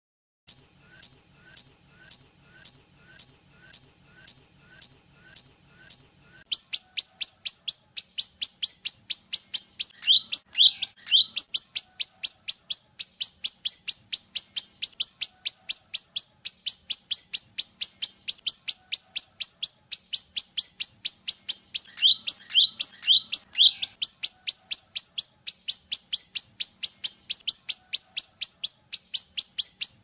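Rio-rio bird song from a masteran (training and lure) recording: high, downward-sweeping chirps about two a second, then from about six seconds in a fast, even run of high notes about five a second, with a few lower notes mixed in twice.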